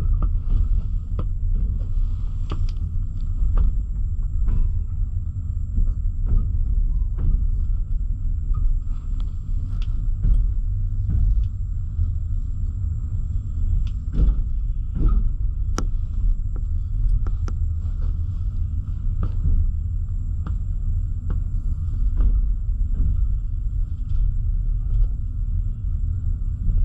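A double-deck passenger coach running on rails, heard from inside, with a steady low rumble. Sharp clicks and knocks come at irregular intervals as the wheels run over rail joints and switches.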